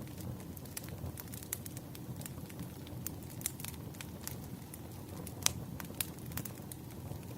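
Wood fire in a fireplace crackling: many irregular sharp pops and snaps over a steady low rumble of flames, with one louder pop about five and a half seconds in.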